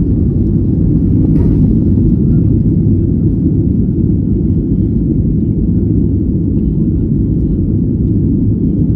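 Passenger jet cabin noise during a gusty takeoff climb: a loud, steady low rumble of engines and airflow.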